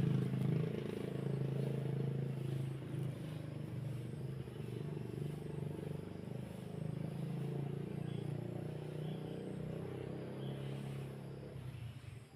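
A small engine running steadily with a low hum, dropping away near the end.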